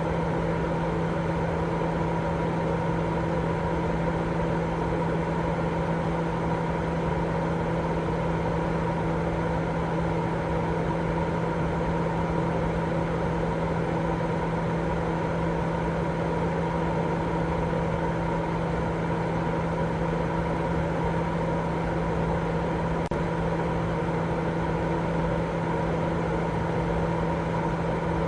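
Continuous baby-sleep white noise: an unchanging rushing noise carrying a steady low, machine-like hum, level throughout with no breaks.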